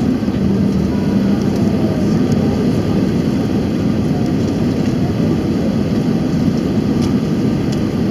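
Steady cabin noise of an Airbus A319-111 in flight on approach, heard from inside the cabin: its CFM56 engines and rushing airflow, with a steady low hum.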